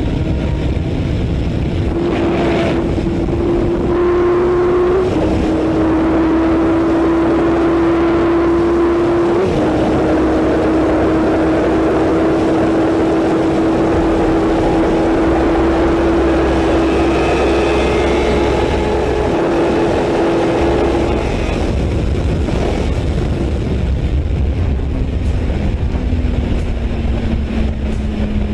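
Sport motorcycle engine running under way, its pitch climbing slowly with sudden drops about five and nine and a half seconds in, like gear changes, then settling lower near the end.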